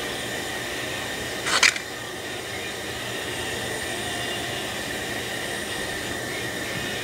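A brief scraping clatter of small metal parts being handled, about a second and a half in, over a steady background hiss with a faint high whine.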